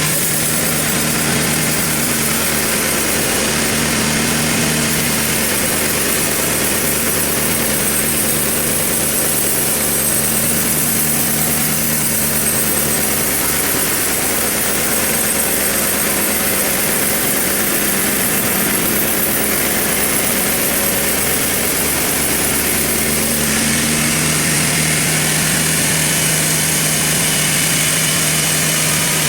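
Sawmill machinery running steadily: an engine hum with a constant high hiss above it, the pitch shifting slightly twice.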